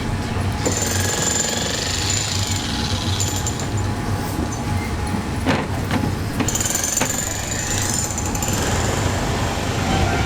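Diesel train engine running at a standstill, a steady rapid rattling throb, with a high hiss that comes in twice.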